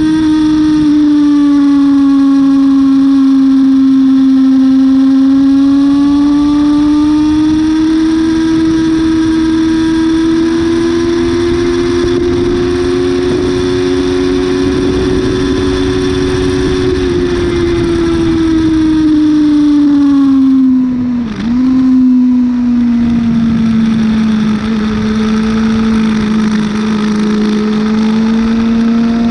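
Yamaha YZF-R6 inline-four engine running hard at high revs, with wind rush over it. The engine note sinks and climbs with the throttle, dips sharply for a moment about two-thirds of the way through, then holds at a lower pitch and starts rising again near the end.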